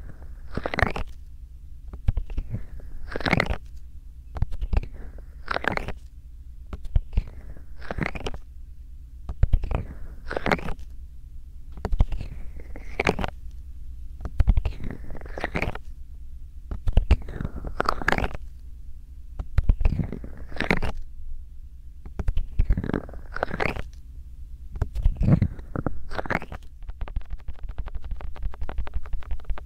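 Bare hands rubbing and massaging close against a binaural microphone, in slow rhythmic strokes about one a second, each a swish with a deep rumble. In the last few seconds it changes to a fast, even patter.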